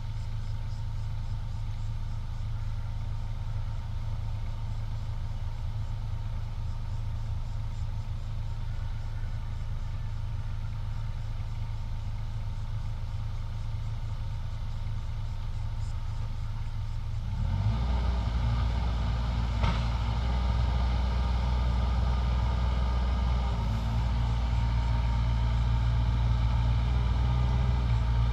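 Diesel engine of earthmoving machinery running steadily at a low idle, then suddenly louder and fuller about two-thirds of the way through as it is throttled up or takes load. A single sharp click comes shortly after.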